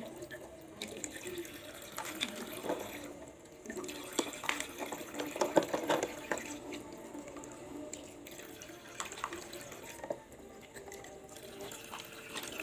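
Water running and splashing, with scattered light clicks and knocks.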